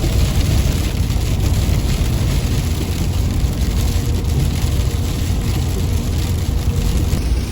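Steady low road and engine rumble of a vehicle driving, with the constant hiss and patter of freezing rain hitting it.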